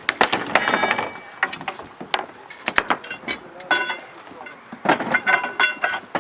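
Metal tools and Ferguson 20 tractor parts clanking and knocking during hand assembly. Rapid sharp knocks come with ringing metal strikes in three bursts: about half a second in, around the middle, and near the end.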